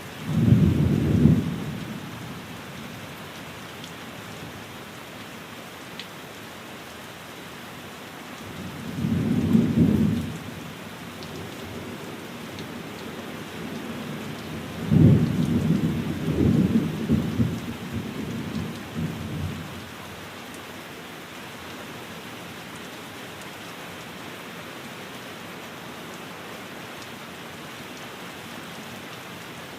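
Steady rain on a window, with three low rolls of thunder: one just after the start, one about ten seconds in, and a longer, rolling one from about fifteen to nineteen seconds in.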